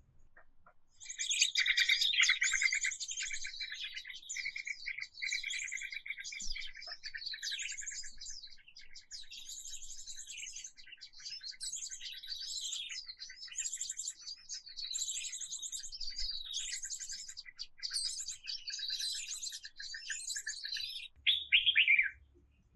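Songbird singing: a busy run of rapid chirps and warbled phrases that starts about a second in and keeps going, ending with a louder downward-sliding call near the end.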